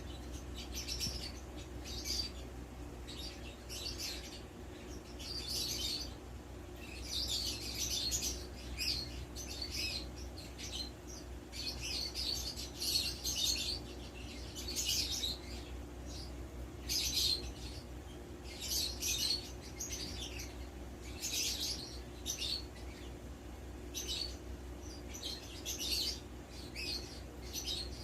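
A bird chirping and twittering in short high bursts, one every second or two, over a low steady hum.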